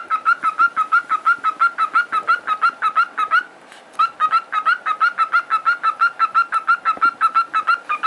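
A parrot giving a rapid string of short, repeated calls, about six a second, with a brief pause about three and a half seconds in before it starts again.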